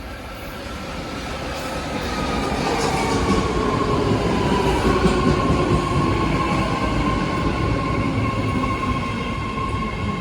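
BART Fleet of the Future electric train arriving at the platform, its rumble growing louder over the first few seconds. A whine falls slowly in pitch as the train slows.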